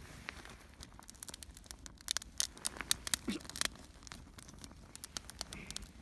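Kindling crackling and snapping at a Swedish torch fire: irregular sharp clicks, thickest about two to four seconds in.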